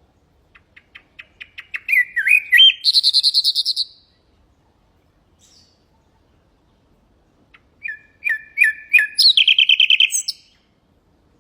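Nightingale singing two song phrases a few seconds apart. Each phrase starts with soft, evenly spaced notes that quickly grow louder, moves into a few sliding notes, and ends in a loud rapid trill.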